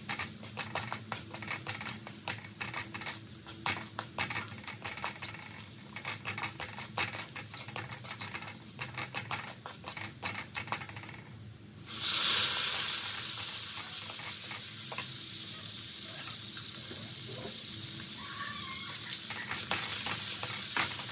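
Wooden spatula scraping and clicking against a metal wok as minced garlic fries. About twelve seconds in, a loud sizzle starts suddenly as raw chicken pieces go into the hot oil, and it carries on steadily under the stirring.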